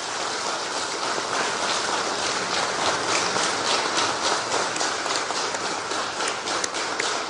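Crowd applauding, a dense, steady mass of clapping.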